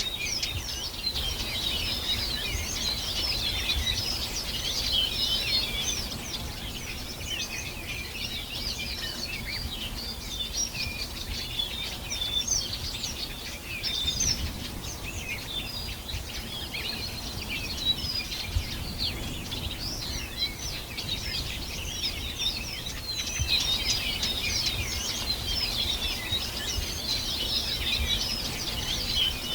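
Many birds singing at once, a dense chorus of quick, high, overlapping chirps and trills that never lets up, over a faint low rumble.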